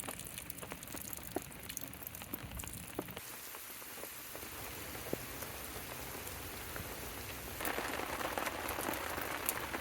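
Steady rain falling, with single drops ticking sharply now and then; the rain grows louder and denser about three quarters of the way through.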